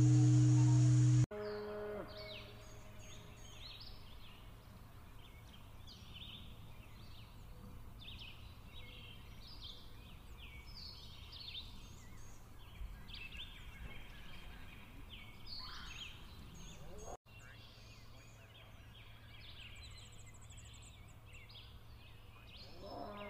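A loud steady droning tone cuts off about a second in, giving way to outdoor nature ambience: many small birds chirping throughout, with a farm animal calling a few times, near the start, about two-thirds through and at the end.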